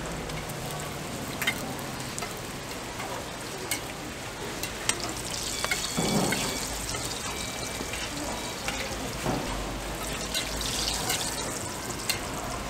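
Hotteok frying in shallow oil on a flat steel griddle, a steady sizzle with a few sharp clicks of metal tongs and spatula against the pan. About halfway through the sizzling surges louder as fresh oil is poured onto the hot griddle.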